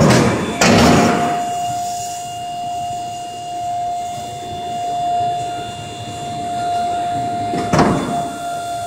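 Steady high-pitched whine from a Canadair T-33's hydraulic system during a landing gear test on the ground. There are loud rushing surges near the start and again near the end.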